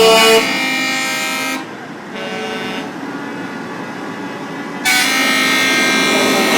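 Truck horns sounding in long, steady blasts, stopping for about three seconds in the middle and starting again near the end.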